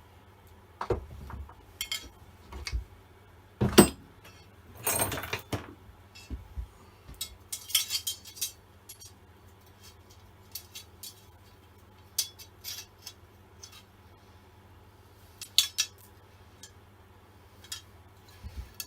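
Scattered metal clinks, knocks and short scrapes as a chainsaw guide bar and chain are handled and fitted back onto the saw, with one sharp knock about four seconds in.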